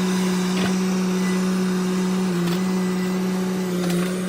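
Chainsaw running at high revs, its pitch dipping briefly twice as it bogs into the wood.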